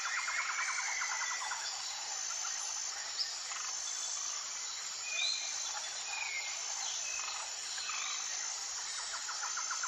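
Forest ambience of insects calling, a high-pitched whine repeated in long pulses, with a rapid buzzy trill near the start and again at the end. Scattered short bird chirps and whistles come in between.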